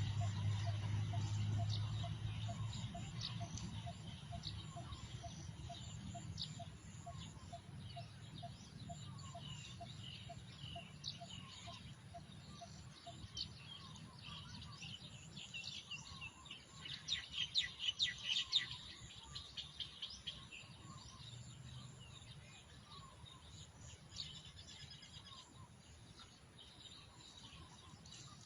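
Birdsong: various small birds chirping, with a louder flurry of chirps about two-thirds of the way through. In the first half, a run of evenly repeated low notes, about two a second.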